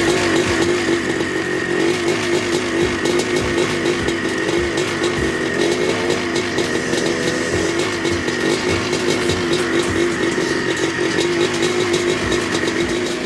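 Engine sound of a monster truck running and revving, its pitch wobbling quickly up and down.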